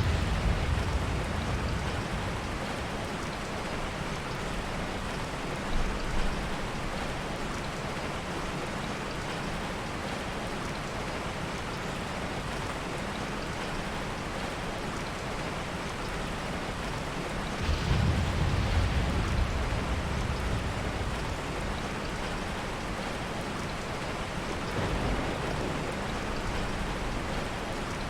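Steady heavy rain with soft, low rolls of thunder: one near the start, a short one about six seconds in, the longest about eighteen seconds in, and a weaker one around twenty-five seconds.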